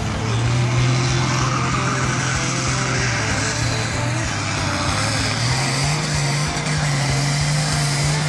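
Farm tractor engine running hard under load in a tractor pull, a steady, loud drone that rises slightly in pitch about five seconds in.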